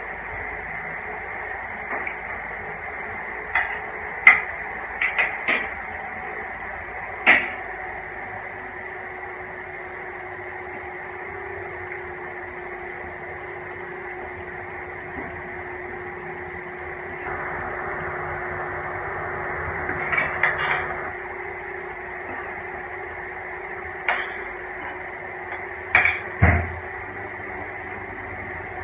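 Steady background hum and hiss with scattered sharp clicks and clinks of utensils against dishes, and a low thump near the end.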